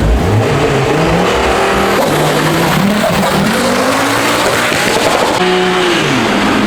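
A car doing a burnout, its engine revving up and down repeatedly while the spinning tyres squeal.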